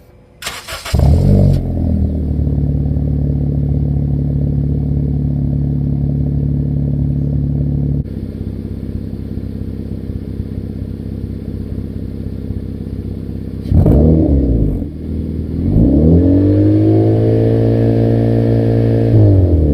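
Honda Civic LX-S's 1.8-litre four-cylinder engine starting up through a Spec-D N1 catback exhaust. The idle settles a little lower about eight seconds in. Near the end the engine is revved twice: a quick blip, then a longer rev held for about three seconds before it drops back to idle.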